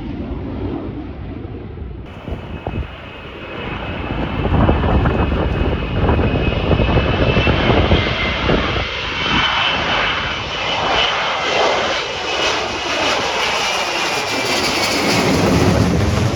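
Fixed-wing aircraft flying past at an air display: a loud engine roar builds about four seconds in and holds, with a high, steady whine running through the middle, then begins to ease near the end.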